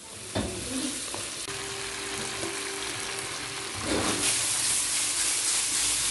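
Shrimp sizzling in a butter, garlic and chilli sauce in a wok over a gas flame while being stirred, with a sharp knock about half a second in. The sizzle grows louder about four seconds in.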